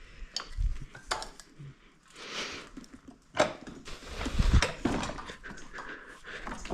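Metal clinks and clanks of tools and parts being handled, with a scrape about two seconds in and a heavier low thump about four seconds in.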